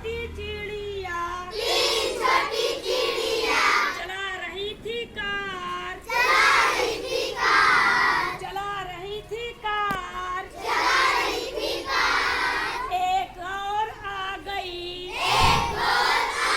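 A child singing a Hindi children's song, phrase after phrase with short breaths between.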